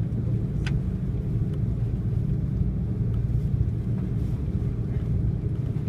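Steady low rumble inside the cabin of an Airbus A330-300 airliner with its engines running, at an even level, with a faint click under a second in.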